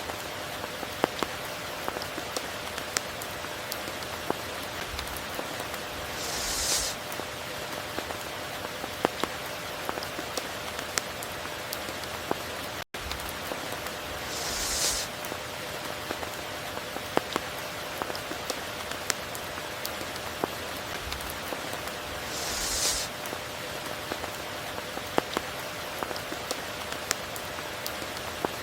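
Steady rain falling, with many sharp individual drops striking close by. A brief hissing swell comes about every eight seconds, and the sound cuts out for an instant about halfway through.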